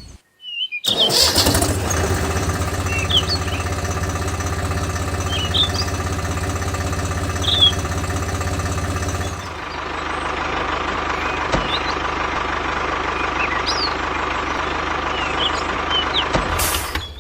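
A DIY mini tractor's motor running steadily, its sound changing and turning duller about halfway through, with birds chirping now and then.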